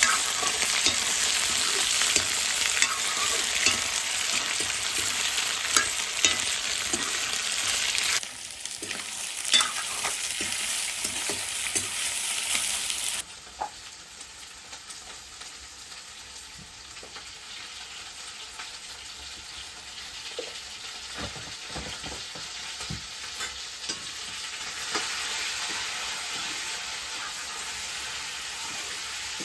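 Chicken sizzling as it fries in a pan, stirred with a spatula that clicks and scrapes against the pan. The loud sizzle drops off abruptly about eight seconds in and again about five seconds later, and quieter frying carries on.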